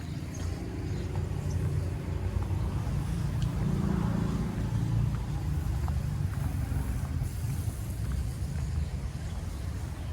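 Motorbike engine running with road and wind noise on a ride, a low rumble that grows louder about four seconds in and then eases.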